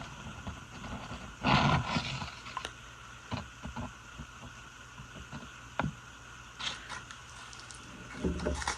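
Paper rustling and handling noises as a sheet is picked up and moved, in short bursts with a few light clicks, the loudest about one and a half seconds in and again near the end, over a steady faint hum.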